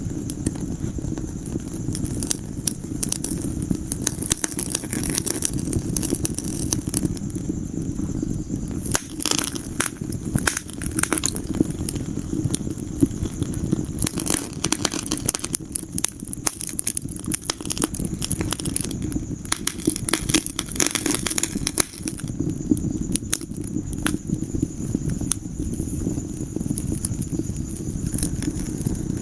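Wood fire crackling in a fireplace: a continuous scatter of sharp pops and snaps over a steady low rumble.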